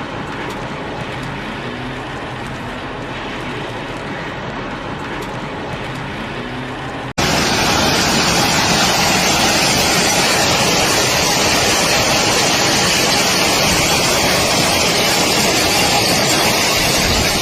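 Storm wind and rain noise, steady throughout. About seven seconds in it cuts abruptly to a louder, hissier stretch.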